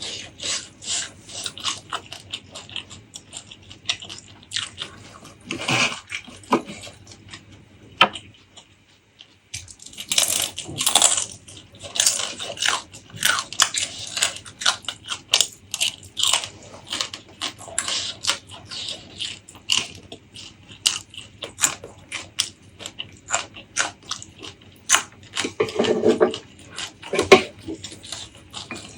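Close-miked eating: a person chewing and biting food, with a quick, irregular stream of crisp clicks and wet mouth smacks. They stop briefly about a third of the way in, then carry on.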